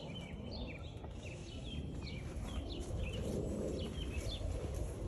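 Birds chirping, many short high chirps in quick succession, over a low steady rumble.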